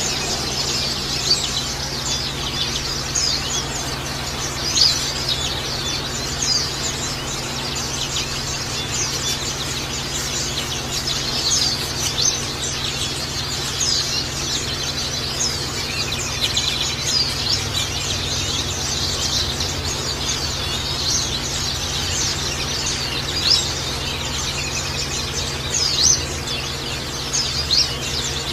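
Pleci (white-eye) birds chirping and twittering rapidly without pause, over a steady hiss of trickling water.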